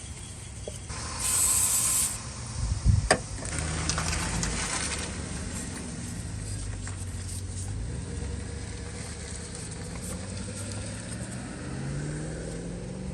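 A short burst of aerosol throttle-body cleaner sprayed from a can, a hiss lasting about a second, followed by a few sharp knocks. After that a low steady hum carries on, its pitch rising slightly near the end.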